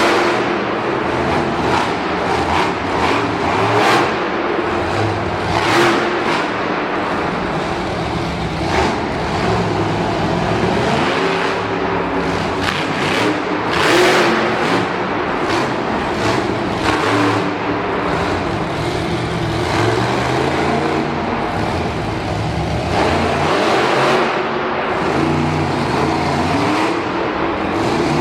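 Monster truck engines revving hard and easing off again and again, the pitch climbing and dropping in repeated surges.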